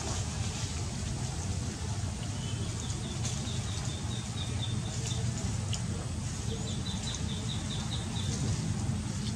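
Steady low hum with two runs of quick, high chirps, about five a second, the first about two and a half seconds in and the second near the end; a few faint clicks and rustles.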